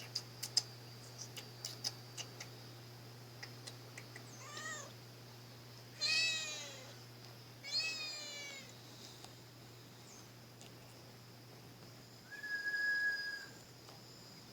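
A domestic cat meowing three times, each meow arching in pitch and lasting about a second. A series of sharp clicks comes first, and a short steady high tone near the end.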